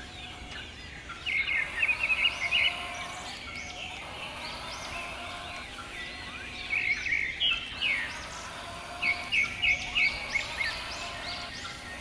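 Several birds chirping and twittering over a steady outdoor hiss. Many short arched chirps repeat throughout, and three louder runs of rapid trilling notes come about a second in, around seven seconds in, and around nine to ten seconds in.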